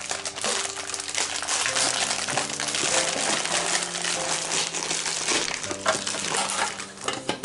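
Plastic shortbread wrapper crinkling and rustling as it is handled, a dense crackle that stops suddenly at the end.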